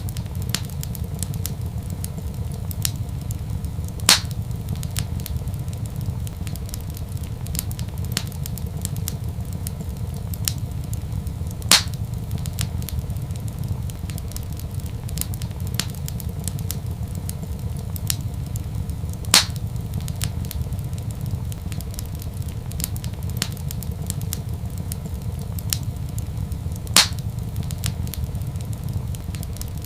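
Wood fire crackling in a fireplace: frequent small crackles over a steady low rumble, with four louder pops evenly spaced through the stretch.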